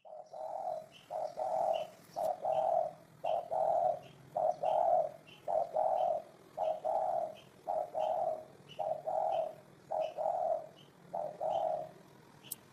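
Spotted dove cooing over and over, each phrase a short coo followed by a longer one, about one phrase a second, stopping about a second before the end. Faint short high chirps repeat about twice a second behind it, and a sharp click comes near the end.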